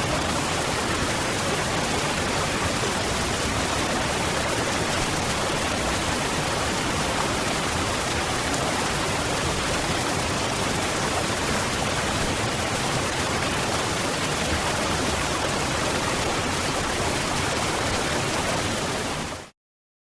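Waterfall rushing as a steady, even roar of falling water, cutting off suddenly into silence just before the end.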